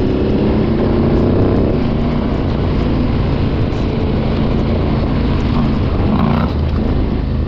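Adventure motorcycle engine running steadily while riding, with rumbling wind and road noise.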